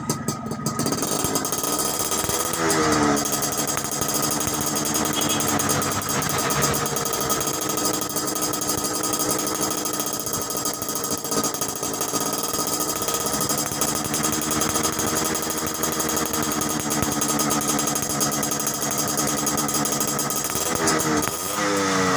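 Motorcycle engine running through an aftermarket baffled ('saringan') exhaust with a rapid, crisp firing note. It holds a steady fast idle, and is blipped up and back down about three seconds in and again near the end.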